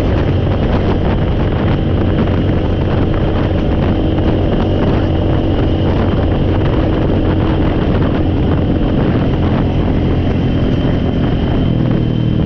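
Four-wheeler (ATV) engine running at a steady idle, its pitch holding even with no revving.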